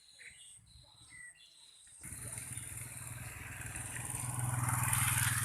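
Faint bird chirps, then about two seconds in a motorcycle engine comes in suddenly with a steady low hum, growing louder toward the end.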